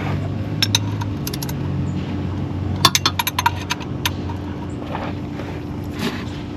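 Metal hand tools clicking and clinking in short clusters, with a quick run of clicks about three seconds in, like a ratchet and socket on a bolt, over a low steady hum.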